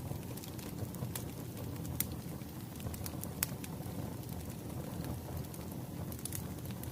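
Wood fire crackling: a steady low rumble of burning logs with a handful of sharp, scattered pops.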